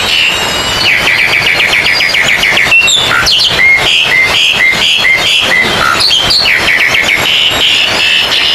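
Several oriental magpie-robins singing loudly at once, overlapping fast trills and repeated whistled phrases over a steady background hiss.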